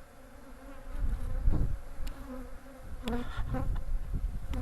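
Honeybees buzzing in a steady hum around an open hive, with a low rumble starting about a second in.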